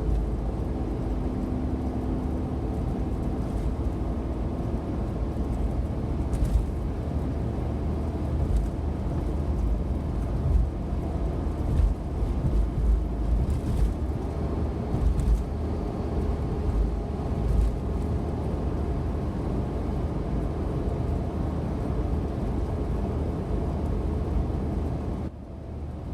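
Suzuki Every kei van cruising at expressway speed: a steady low rumble of road and engine noise, dipping briefly near the end.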